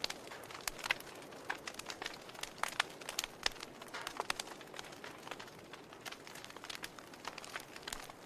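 Wood logs burning in a fireplace: irregular sharp crackles and pops, several a second, over a soft steady hiss of the flames.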